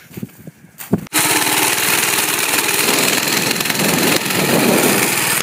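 Minibike's small Tecumseh engine running loud with its exhaust gone, a rapid, even rattle of firing pulses that starts abruptly about a second in.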